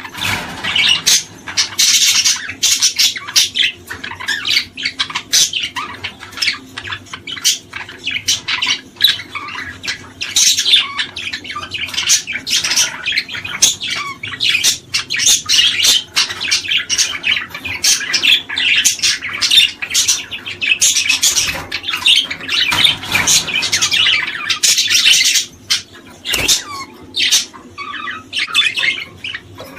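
A group of small songbirds chirping and chattering, with many short calls overlapping densely; the calling thins out about four seconds before the end.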